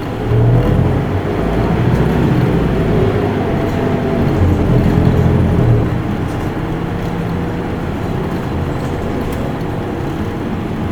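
Cabin sound of an Isuzu Erga Mio city bus on the move. Its diesel engine pulls harder for the first six seconds or so, then settles to a steadier, quieter run over road noise.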